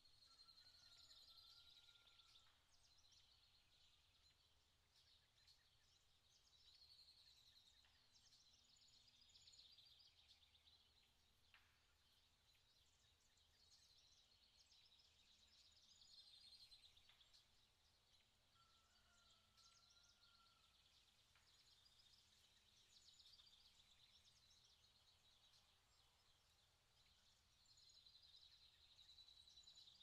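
Very faint forest ambience close to silence: small birds singing in repeated high chirping phrases, with a lower whistled note twice and a few soft ticks.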